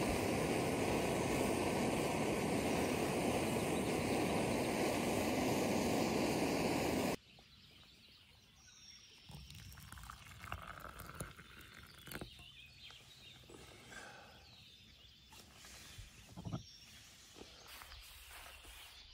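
A loud steady rushing noise that cuts off abruptly about seven seconds in. After that it is quiet, with faint bird calls and a few light clicks and knocks.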